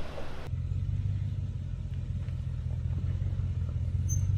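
An off-road 4x4's engine running with a steady low drone, cutting in suddenly about half a second in where the windy hiss before it stops.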